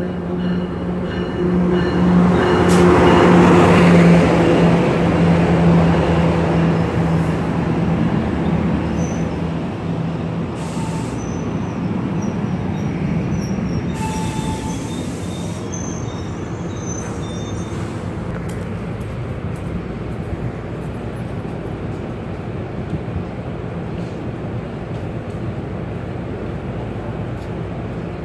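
NJ Transit multilevel commuter train rolling in along the platform. It is loudest as the leading car goes by, about three to four seconds in, with a steady low hum under the rush of wheels on rail. It then eases to a steady rumble as the coaches pass, with a few brief high wheel squeals partway through.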